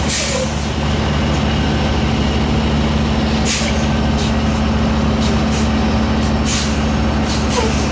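Semi truck's diesel engine running steadily at low speed, with a series of short air hisses from the air brakes; the longest hisses come about three and a half and six and a half seconds in.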